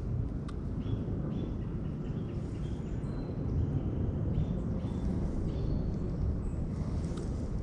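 Wind rumbling on the microphone, with birds chirping in short repeated calls.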